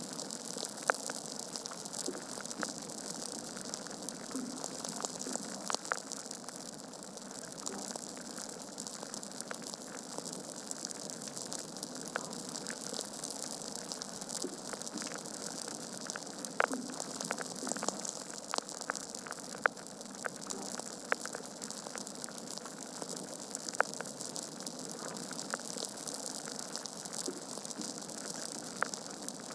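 Wood fire burning in a fireplace: a steady hiss of flames with irregular sharp crackles and pops from the logs.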